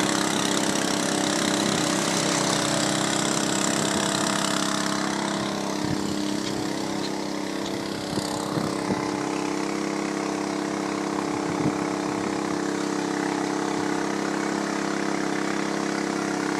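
Alkon fire-fighting pump engine running steadily at a constant speed, with a high hiss over it that fades out about five seconds in.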